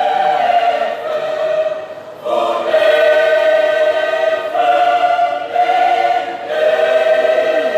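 Choir singing long held chords, with a short break about two seconds in before the next phrase.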